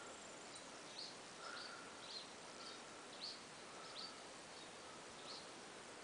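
Faint small bird chirps: short high notes, each dropping slightly in pitch, repeated roughly every half second, with a few fainter, lower drawn-out notes now and then over a steady background hiss.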